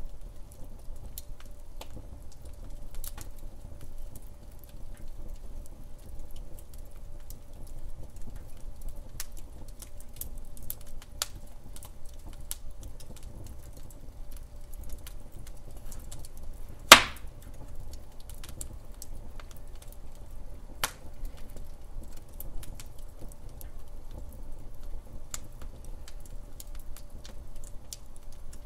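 Wood fire crackling in a fireplace: a steady low rumble of burning with scattered small snaps. One loud sharp pop comes a little past halfway, and another clear pop a few seconds later.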